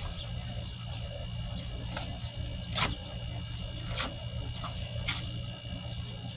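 Packing tape being peeled and torn off cardboard: three short tearing sounds about a second apart.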